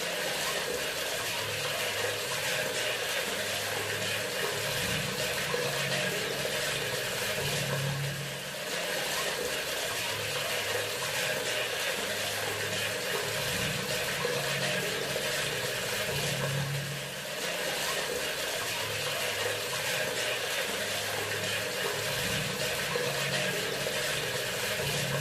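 Water running steadily from a bathroom sink faucet, with a low hum that swells about every eight seconds.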